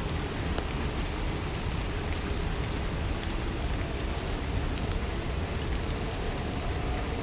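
Steady rainfall: an even hiss of rain with scattered small ticks of individual drops.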